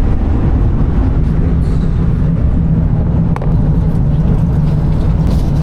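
Running noise of a Fuxing high-speed train heard from inside the carriage: a steady low rumble with a constant hum, and a single sharp click about three and a half seconds in.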